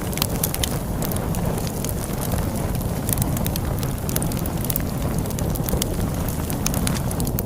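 Wood fire crackling with frequent sharp pops and snaps, over a steady low rush of storm wind.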